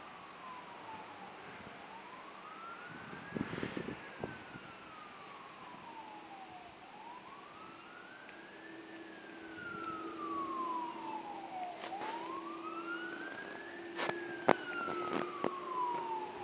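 Distant fire-truck siren wailing, a single tone sweeping slowly up and down about three times. A steady lower hum joins about six seconds in, and a few faint clicks fall near the end.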